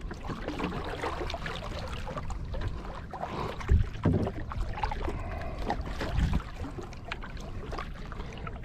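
Kayak paddling: paddle blades dipping and splashing in the water, with water dripping, and two louder low thumps, one near the middle and one about two-thirds in.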